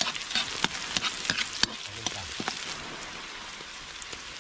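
Garlic, ginger and turmeric sautéing in hot oil in a wok, sizzling with sharp crackles and pops that thin out after about two and a half seconds.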